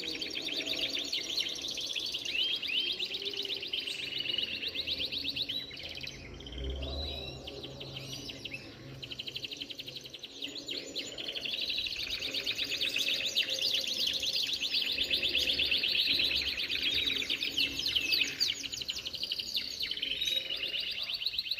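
Canaries singing: long, very fast rolling trills, with a brief lull a third of the way in before the trills pick up again.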